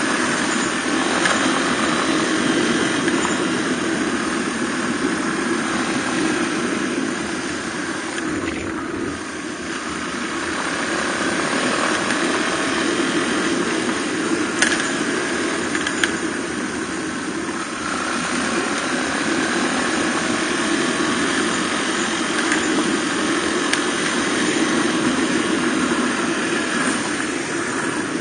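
Suzuki DR250R single-cylinder four-stroke motorcycle engine running steadily on the move. It eases off about nine seconds in and pulls back up over the next few seconds. A couple of sharp ticks come around the middle.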